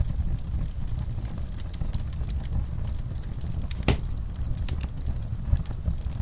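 Wood fire crackling in a fireplace: a steady low rumble of burning with scattered small pops, and one sharp, louder pop about four seconds in.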